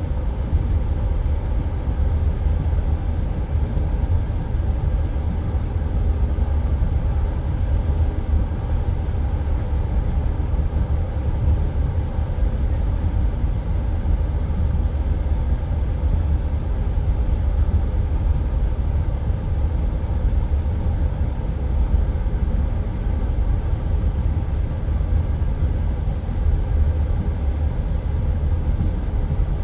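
Passenger train running at speed between stations, heard from inside the carriage: a steady low rumble of the wheels on the rails.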